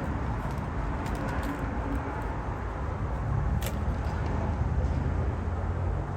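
Cammed, straight-piped 2008 Impala SS's 5.3 L LS4 V8 running with a steady low exhaust drone over hiss. A short click comes about three and a half seconds in.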